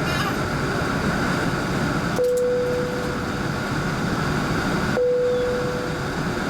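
Steady cabin noise inside an Airbus A380, with two single-tone cabin chimes about three seconds apart, each ringing out for about a second.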